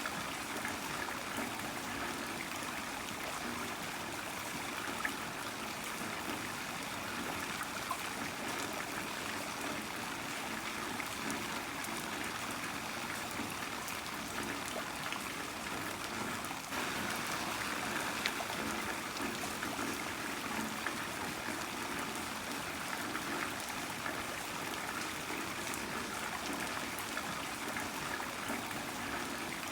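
Heavy rain falling steadily, with water running and trickling and scattered drops ticking. A brief dip comes about seventeen seconds in, after which the rain is slightly louder.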